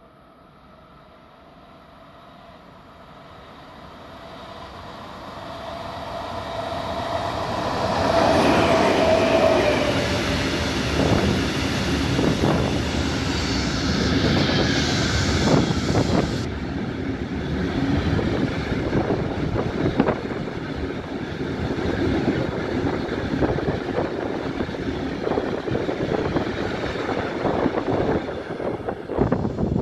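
A train approaching and passing close by: its sound grows steadily for about eight seconds, a running tone drops slightly in pitch as it draws level, then the wheels clatter over the rail joints in a long run of knocks as the cars go past.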